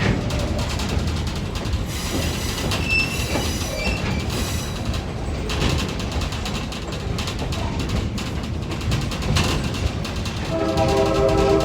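Passenger train rumbling and rattling along the track, with a brief high wheel squeal a few seconds in. Near the end the train's horn starts to blow, a steady chord of several tones.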